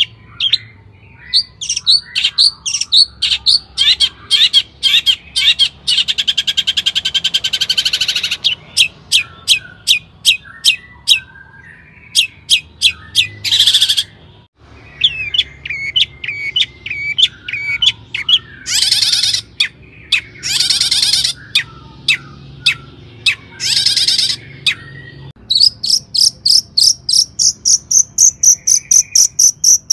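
Long-tailed shrike singing a fast, varied song: runs of sharp repeated notes broken by harsh buzzy rattles, with a moment's silence about halfway, ending in a rapid run of high notes at about four a second.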